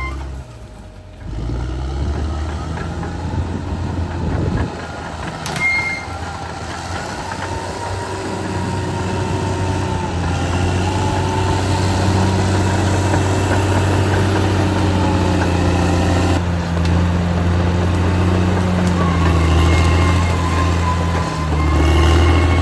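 Caterpillar D6R XL bulldozer's diesel engine running steadily, growing louder about eight seconds in, with a faint whine above it.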